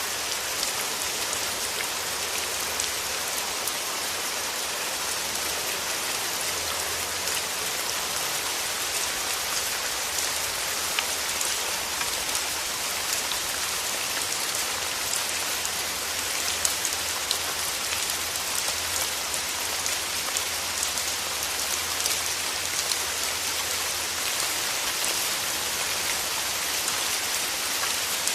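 Steady rain falling through forest trees, an even patter with fine scattered drop ticks. A faint low hum sits underneath for much of the middle.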